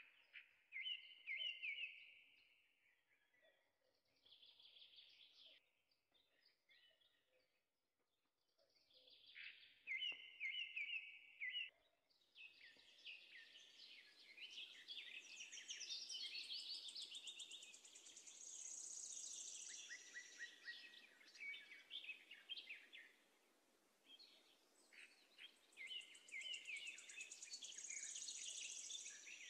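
Faint birdsong: several birds chirping in short, quickly repeated phrases that overlap. About twelve seconds in, a steady hiss of background noise joins them.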